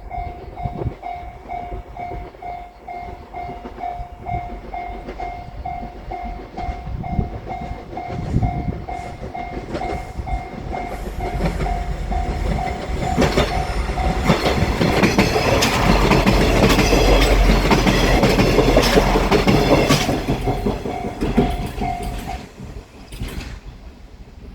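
A Japanese railway crossing's warning bell rings about twice a second while a diesel limited express train with the KiRoHa 186 Anpanman car passes over the crossing. The train grows loud from about the middle, its wheels clicking over the rail joints. The bell stops near the end.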